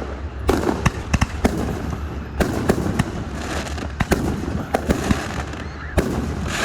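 Fireworks display going off: a quick, irregular run of sharp bangs, several a second, with crackling between them.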